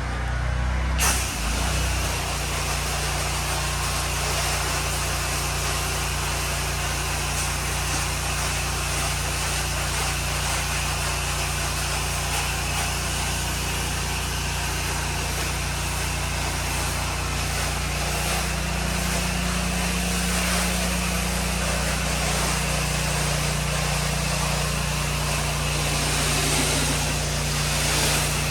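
A pressure washer's gas engine running steadily, joined about a second in by the even hiss of the water spray.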